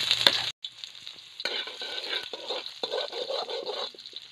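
Ginger slices sizzling in hot oil in a metal wok, stirred with a long metal spoon that scrapes the pan in short strokes from about a second and a half in. The sound briefly drops out about half a second in.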